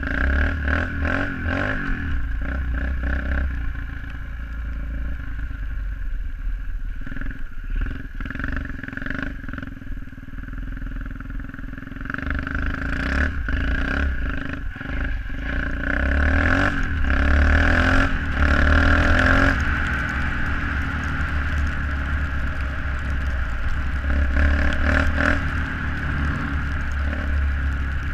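SSR 125cc pit bike's single-cylinder four-stroke engine running under changing throttle: it eases off for several seconds, then opens up again from a little under halfway through, loudest about two-thirds of the way in. Scattered knocks and clatter run through it.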